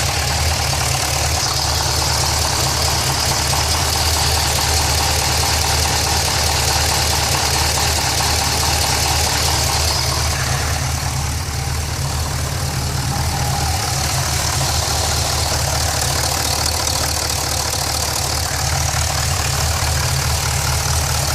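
GTO engine idling steadily with a repetitive knock, which the owner places low on the engine towards the mid pipe.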